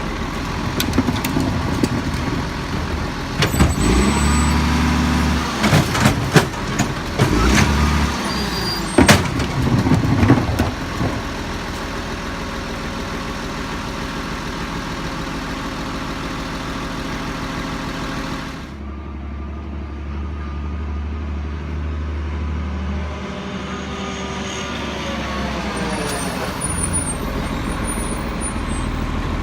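Lodal Evo trash truck's engine running, with a run of loud knocks and bangs from the collection work a few seconds in, then the engine carrying on and changing pitch.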